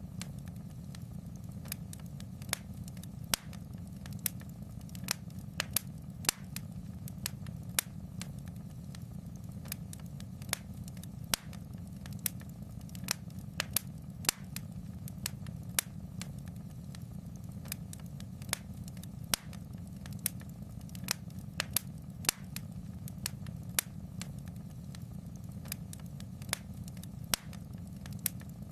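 Fire in a fireplace crackling: a steady low rumble with sharp, irregular pops and snaps several times a second.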